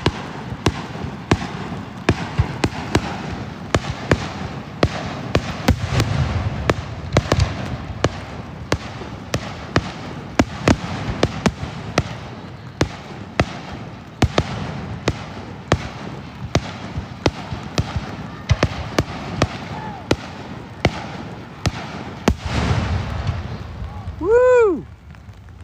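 Raindrops hitting a car's roof and windshield, many sharp taps a second, with low booms of fireworks swelling up twice. Near the end a person whoops 'woo!'.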